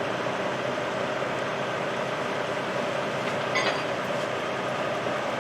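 A machine's engine running steadily, with a brief metallic clink about three and a half seconds in.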